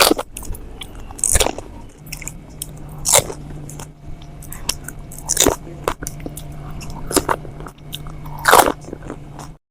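Biting into crisp fried pani puri shells: about six loud crunches, a second or two apart, with smaller crackles between, over a faint steady hum. The sound cuts off just before the end.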